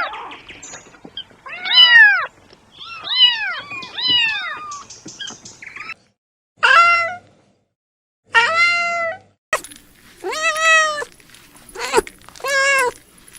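Kittens meowing: a string of about seven separate meows, each rising then falling in pitch, with short pauses between them.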